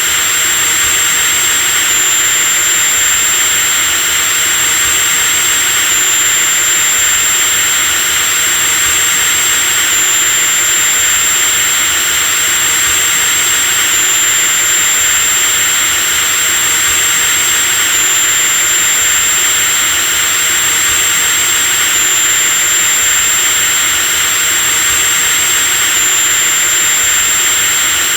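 Electric drill running continuously at steady speed: a high-pitched motor whine over a steady hiss, with a slight hitch in the whine about every four seconds.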